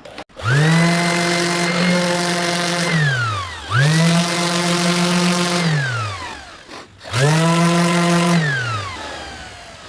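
A small electric motor, such as a handheld power tool, switched on three times: each time it spins up quickly, runs at a steady pitch for about two to three seconds, then winds down as it is released.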